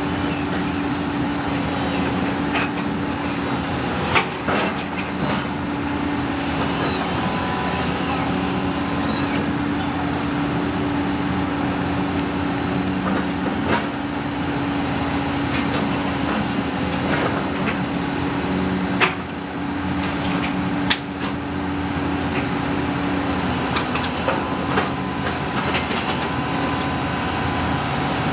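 Excavator engine running steadily with a held droning tone that drops away near the end, broken by a few sharp knocks and small high squeaks.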